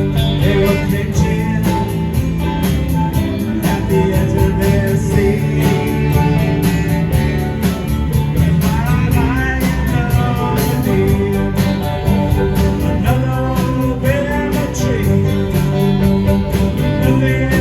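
Live band music: guitar to the fore over bass and a steady drum beat, with bending guitar-like notes and no clear words.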